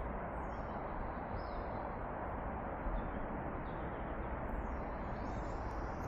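Small birds chirping now and then, short high falling notes, over a steady outdoor hiss.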